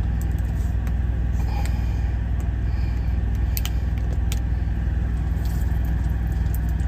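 Steady low rumble of a truck's idling diesel engine heard inside the cab, with a few faint light clinks of cooking things being handled.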